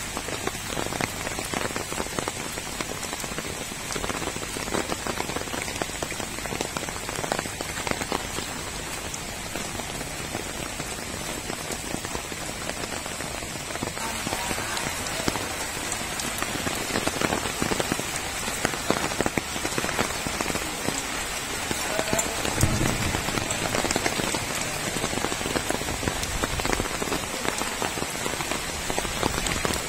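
Heavy rain falling on puddles and waterlogged ground, a dense, steady spatter of drops that grows somewhat louder about halfway through.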